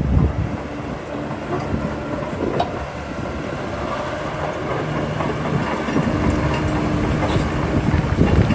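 Heavy diesel earthmoving machinery running, with dense metallic clanking and rattling throughout and heavier knocks near the start and the end.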